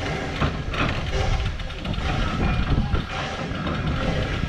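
Steam locomotive moving slowly, a steady low rumble.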